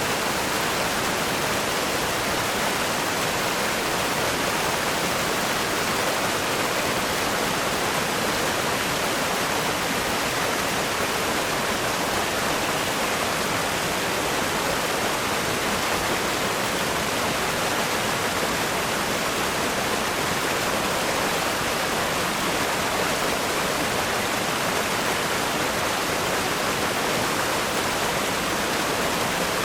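Strong river rapids rushing over rocks: a steady, unbroken roar of water with no separate splashes or birds.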